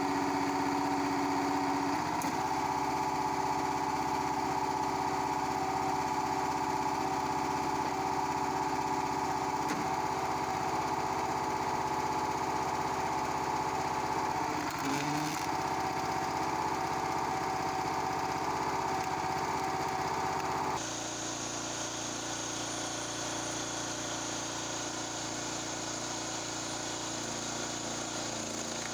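Log splitter's Honda GX240 single-cylinder engine running steadily. About two-thirds of the way through, the sound changes abruptly and becomes a little quieter.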